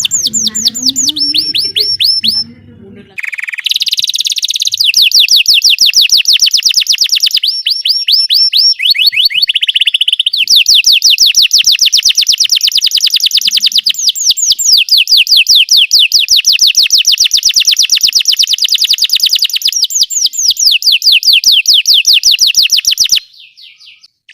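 Belgian canary singing long rolling trills of fast repeated sweeping notes, switching from one roll to another every few seconds, until the song stops shortly before the end. A low sound runs under the song for the first three seconds.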